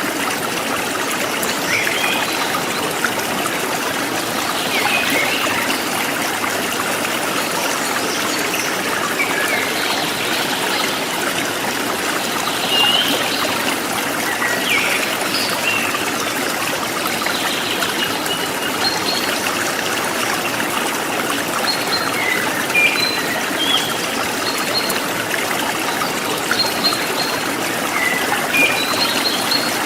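A river running over rocks: a steady rush of flowing water, with many small high plinking and burbling notes scattered through it.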